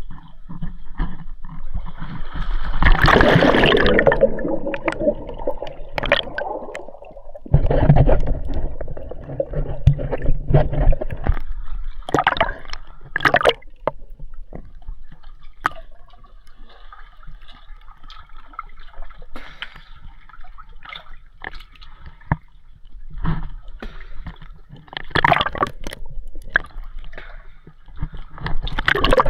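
Water sloshing and gurgling close to the microphone, in irregular surges with short splashes and knocks.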